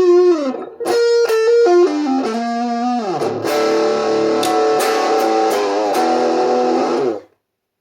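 Electric guitar played through a Master Play PA-20 amplifier: a short phrase of single notes, then a chord struck and left ringing for about four seconds before it is cut off suddenly.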